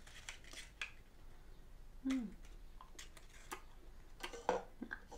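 Close-miked mouth sounds of someone eating a macaron: small soft crackles and clicks as it is chewed, with a brief hummed sound about two seconds in and a louder one near the end.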